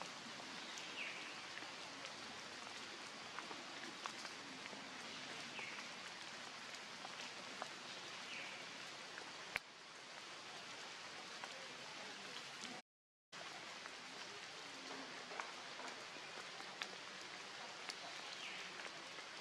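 Steady hiss of rain falling on forest foliage and wet leaf litter, with scattered sharper drops. The sound cuts out for a moment about two-thirds of the way through.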